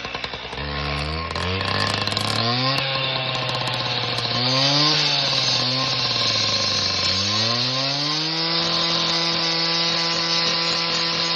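Handheld grinder running with a whine whose pitch dips and climbs back several times, then holds steady for the last few seconds, over a continuous hiss.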